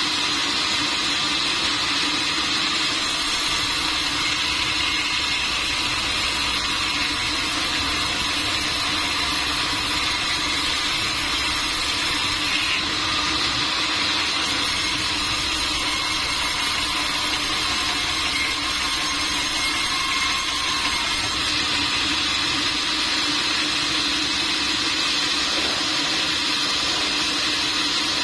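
Sawmill machinery running steadily, a constant mechanical hum and whine that holds the same level throughout.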